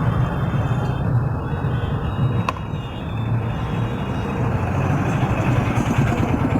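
Steady motor-vehicle engine noise, a continuous low rumble, with a single sharp click about two and a half seconds in.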